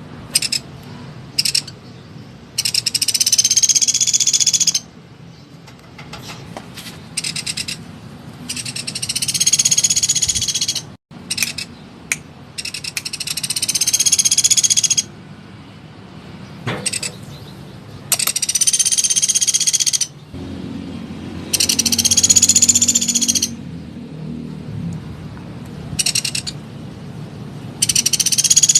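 Small woodpecker calling in loud, very rapid trills, each lasting about two seconds, repeated about six times, with short sharp single notes in between.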